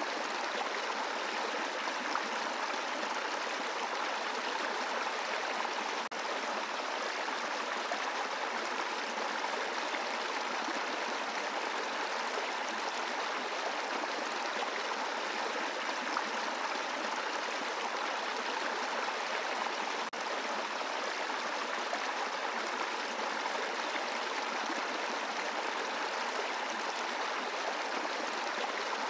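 Brook flowing over a bed of rocks: a steady rush of water.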